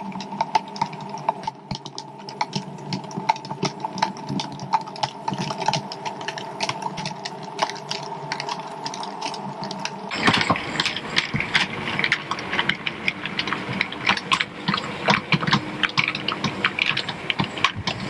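OO gauge model train running along the track: a steady motor hum with rapid small clicks and rattles from the wheels on the rails. About ten seconds in the sound changes suddenly to a busier, brighter clicking.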